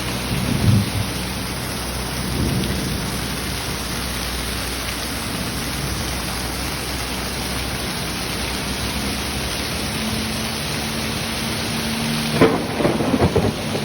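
Heavy rain pouring down steadily, with a few louder low thumps and rumbles about a second in and again near the end.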